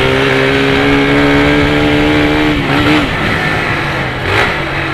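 Motorcycle engine breathing through an unmodified Polimet exhaust, pulling under steady, slowly rising revs, then falling off about two and a half seconds in as the throttle eases.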